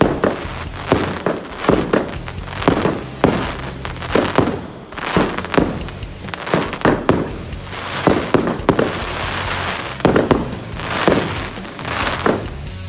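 Consumer display fireworks going off in a rapid string of sharp bangs, about two a second, over backing music.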